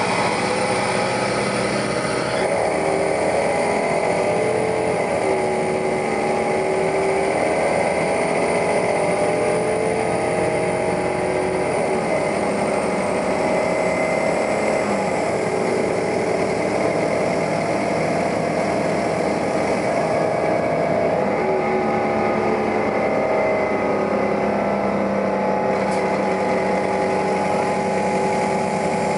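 New Flyer articulated city bus heard while riding: its engine and drivetrain run steadily, with a whine whose pitch rises and falls several times as the bus speeds up and slows down.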